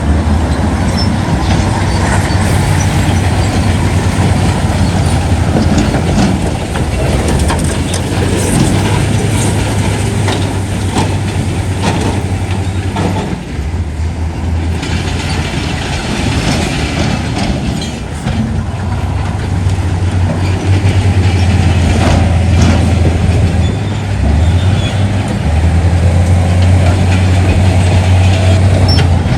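Heavy diesel earthmoving machinery running, a deep steady engine drone that drops away briefly a few times, with scattered clanks and knocks over a continuous mechanical rumble.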